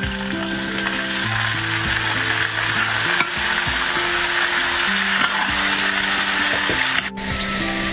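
Pork belly and green vegetable stalks sizzling in a hot wok while a metal spatula stirs and scrapes them, the frying hiss loud and continuous apart from a brief break near the end.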